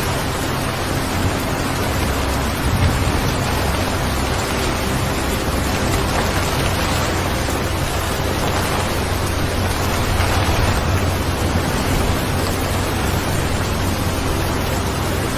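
Steady rain ambience: an even hiss of falling rain with a low rumble underneath.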